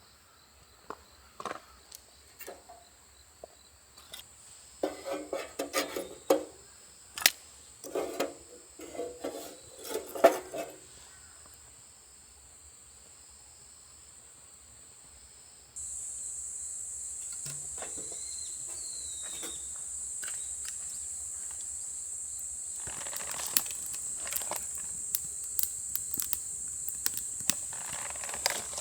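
Crickets chirring steadily in a high, even drone, much louder from about halfway through, with scattered light clicks and knocks in the first half.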